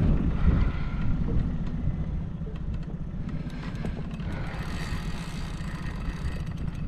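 Steady low rumble aboard a small fishing boat, with a few faint ticks over it.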